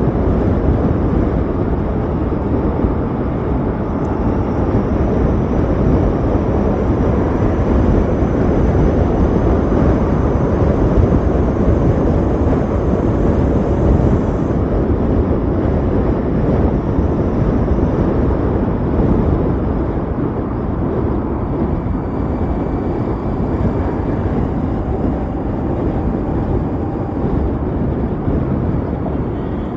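Steady wind rush and road noise from riding an Ather 450X electric scooter at speed, with no engine note.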